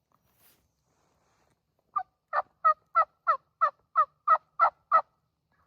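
A series of ten turkey yelps, about three a second, each note breaking from a higher to a lower pitch.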